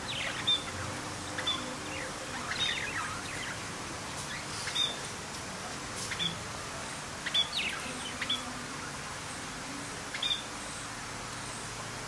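Rainforest birds calling: short, high chirps, several with quick downward sweeps, every second or two over a steady background hiss.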